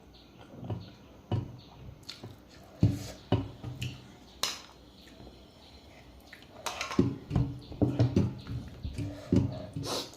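Close-miked eating sounds from a mouthful of chicken soup and rice: wet chewing, smacking and slurping in short sharp clicks. They come sparsely at first and bunch into a rapid run in the second half.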